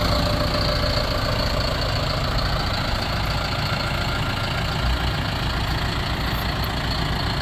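John Deere 6420 tractor's four-cylinder diesel engine idling steadily.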